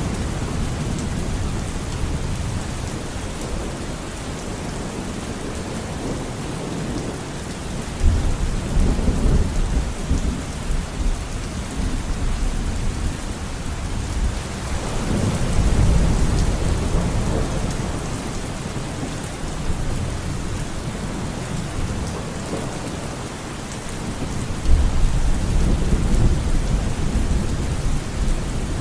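Steady rain falling, with low rolling thunder rumbles that swell up three times: about eight seconds in, in the middle, and near the end.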